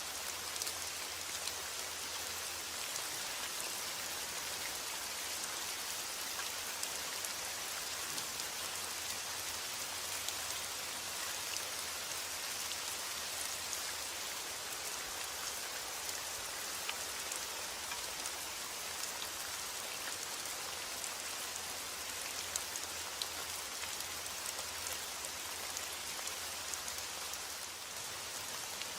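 Steady rain falling, an even hiss dotted with the ticks of separate drops hitting a surface.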